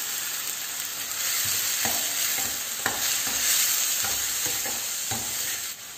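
Chopped tomatoes and onions sizzling in hot oil in a kadai, stirred with a spatula that scrapes and knocks against the pan a few times.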